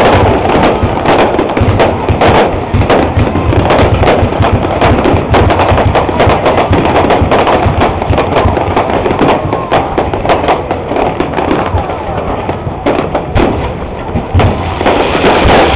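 Dense fireworks barrage: many shells bursting in quick, overlapping bangs and crackles, several a second, easing slightly before building again near the end.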